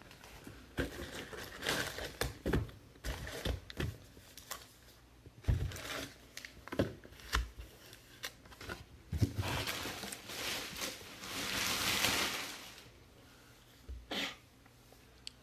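Trading-card packs and cards being handled: scattered clicks and rustles, then a longer crinkling rustle of wrapper about ten seconds in.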